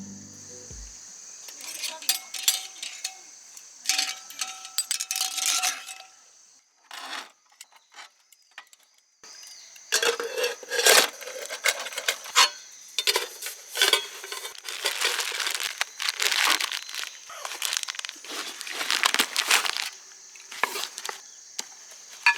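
Irregular rustling and crinkling of plastic or fabric with scattered light clicks and clinks, the sounds of handling gear or packaging, pausing briefly about a third of the way in. A faint steady high tone runs underneath.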